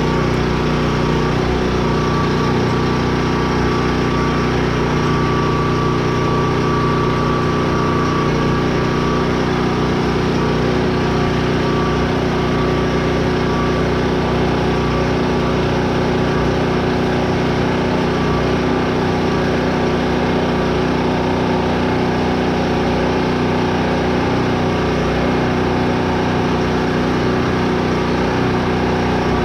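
Portable generator's engine running steadily at constant speed, a continuous even hum.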